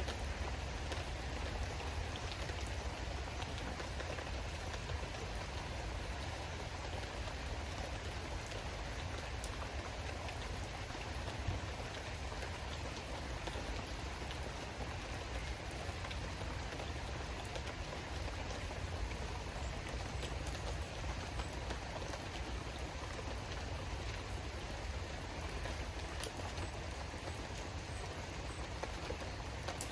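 Steady rain falling, with scattered sharp drop hits over a low rumble.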